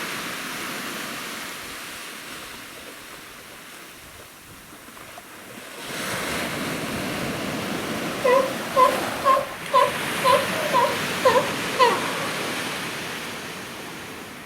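Ocean surf washing steadily, swelling again about halfway through. Near the end comes a quick run of about eight short pitched calls, roughly two a second.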